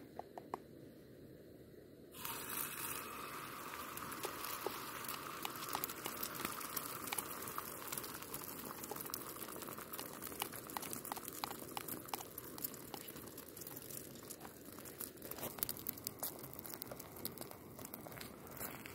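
Whitebait-and-egg batter sizzling in a hot frying pan on a camping stove. The sizzle starts suddenly about two seconds in, as the batter is poured into the pan, then carries on as a steady hiss full of small crackles.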